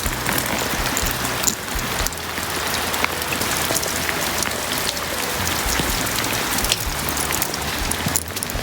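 Heavy rain falling steadily, with many sharp drop impacts.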